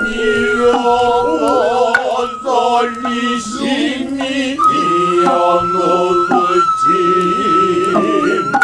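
Noh music: a nohkan bamboo flute holds a high, piercing note with small slides in pitch, while male voices chant noh utai in a slow, wavering line beneath it.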